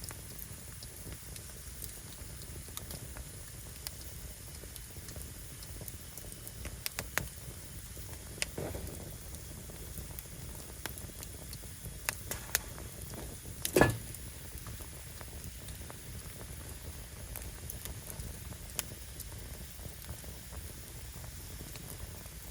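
Firewood burning: a steady low rumble with scattered small crackles and a few sharp pops, the loudest about fourteen seconds in.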